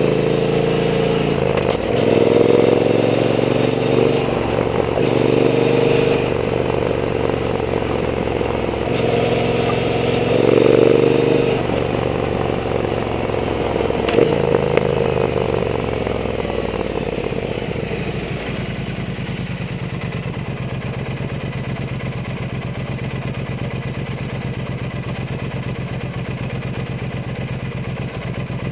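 Triumph Bonneville T120 parallel-twin engine through a Zard aftermarket exhaust. The engine opens up in several bursts of throttle over the first ten seconds or so, then rolls off and slows. It settles into a steady idle for roughly the last ten seconds.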